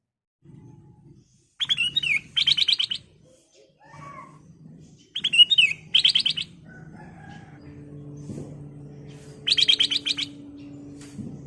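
Black-crested bulbul singing: three loud phrases, the first two a short swooping whistle followed by a fast rattling trill, and the last near the end a trill alone. A low steady hum sits under the second half.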